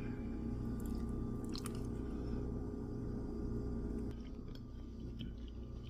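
A person chewing a mouthful of pot pie, over a steady low hum that drops in level about four seconds in, with a few faint clicks.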